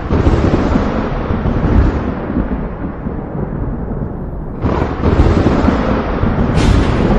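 Thunder rumbling deep and loud throughout. A fresh thunderclap breaks in about four and a half seconds in, and a sharper crack follows near the end.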